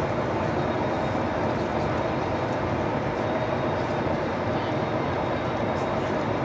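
Steady cabin noise inside an Airbus A220-300 in flight: an even rush of airflow and engine noise, with a faint high steady whine.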